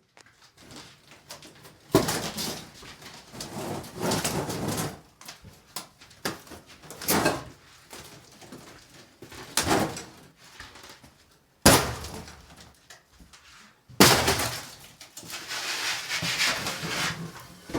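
Knocks and clattering in a small room: several sharp bangs, the loudest about 2, 12 and 14 seconds in, each followed by rattling and scraping.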